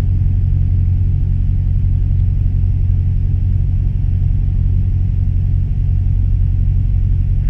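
Cessna 172M's four-cylinder Lycoming O-320 engine and propeller droning steadily in cruise flight, heard from inside the cabin as a low, even drone.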